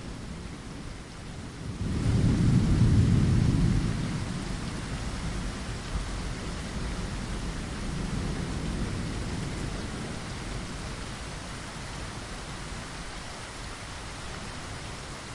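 Steady rain falling against a window, with rolling thunder. A loud rumble rises suddenly about two seconds in and fades over the next couple of seconds, and a weaker rumble follows later.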